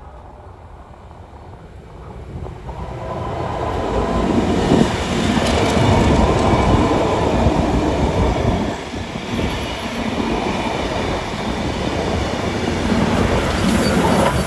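Heritage passenger train passing close on the near track, its steel wheels clattering over the rails. It builds from about three seconds in and stays loud, swelling again near the end as the 6029 Garratt steam locomotive comes level.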